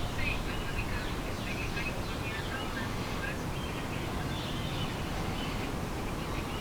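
Outdoor ambience of many birds calling in short chirps over a steady low rumble.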